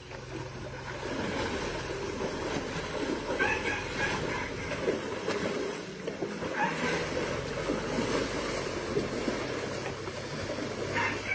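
Water sloshing and splashing steadily as elephants bathe, with short high-pitched calls or voices rising over it about three and a half and six and a half seconds in.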